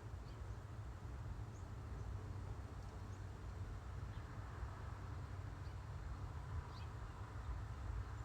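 Outdoor ambience: a steady low rumble with faint, short high bird chirps scattered through it, several over the few seconds.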